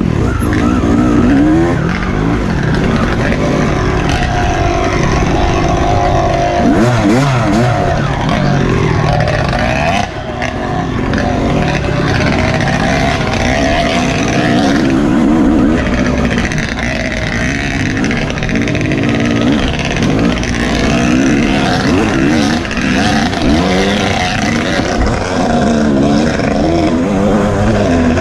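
Dirt bike engine being revved up and down continuously as the throttle is worked in an off-road race, with a steady rush of wind and noise underneath.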